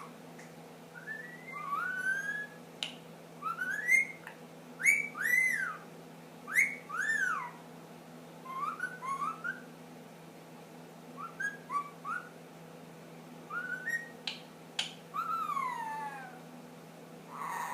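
Ringneck parakeet whistling: groups of short rising and arching whistled notes, with a few sharp clicks and a long falling whistle about fifteen seconds in.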